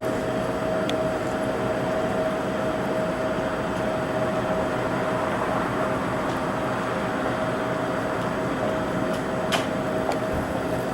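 Train running, an even rumble with a steady mid-pitched hum over it and a faint click about nine and a half seconds in.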